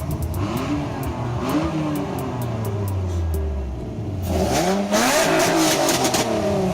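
Car engine revving: its pitch sinks slowly for about four seconds, then it climbs sharply and runs louder to the end.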